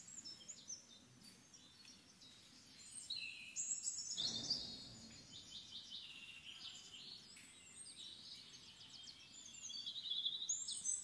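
Several birds chirping and singing, with quick trills and short whistled notes overlapping throughout, and a brief low rush about four seconds in.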